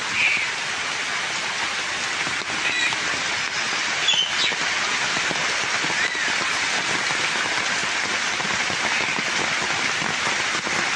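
Heavy rain pouring onto flooded standing water and leaves, a steady, even hiss of countless drops.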